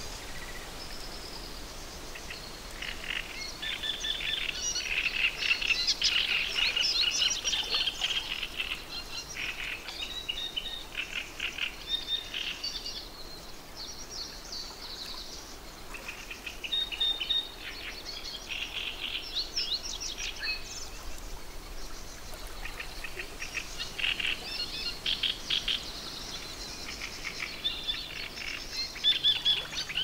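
Small songbirds chirping and calling, many short rapid calls overlapping, busiest a few seconds in and again in the second half, over a faint steady background hiss.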